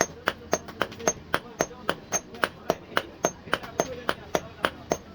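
Blacksmith's hand hammer beating metal on an anvil while forging a fishing spear: a steady run of sharp metallic blows, about four a second.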